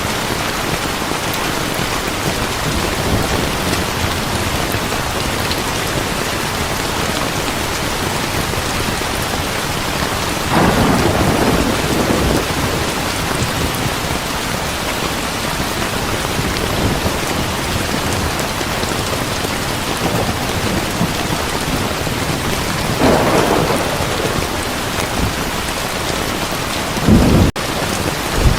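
Heavy rain pouring steadily, with thunder rumbling twice, about ten seconds in and again past the twenty-second mark. A sharper, louder thunderclap comes near the end, and the sound cuts out for an instant just after it.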